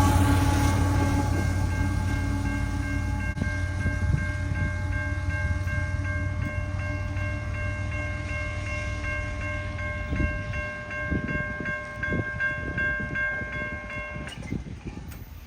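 Freight train's rumble fading as it moves away, with a level-crossing bell ringing steadily; the bell stops suddenly near the end.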